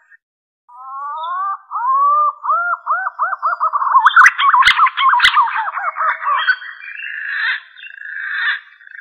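Green pigeon (punai) song: a few rising whistles, then a run of looping whistled notes that speed up, turning into a rougher, hoarse stretch toward the end. Two sharp clicks come near the middle.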